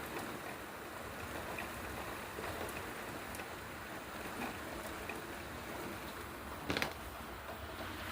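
Heavy thunderstorm rain falling steadily, an even hiss of water, with one brief sharp tap or knock about seven seconds in.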